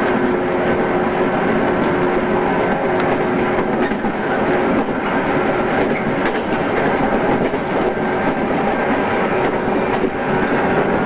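JR East 113 series electric train running steadily on the Tokaido Line, a continuous rumble of wheels and running gear with a few steady tones and occasional faint rail-joint clicks, as recorded on cassette tape.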